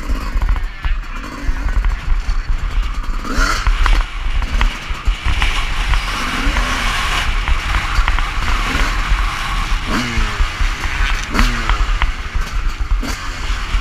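Motocross bike engine revving up and falling back about six times as it is ridden, with heavy wind rumble on the action camera's microphone.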